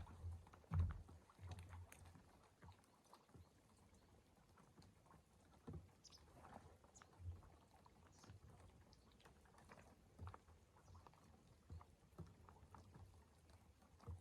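Near silence with faint, scattered clicks and a few soft low thumps, the strongest about a second in.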